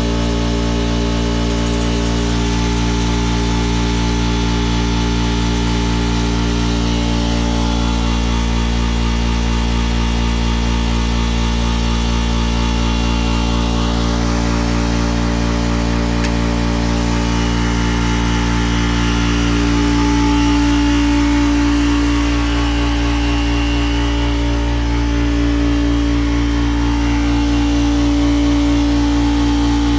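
Air compressor running steadily, a constant machine hum with a fine regular pulsing, while it supplies air to the locomotive; a stronger tone joins about twenty seconds in.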